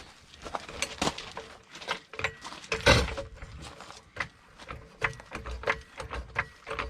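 Scattered metal clinks and knocks from tools and suspension parts being handled during a rear coil spring and shock job, with one louder knock about three seconds in.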